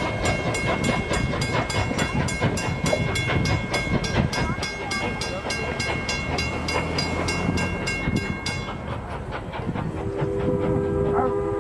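Steam locomotive's bell ringing steadily at about four strokes a second over the rumble of the train, stopping about nine seconds in. Near the end a multi-chime steam whistle starts blowing a sustained chord.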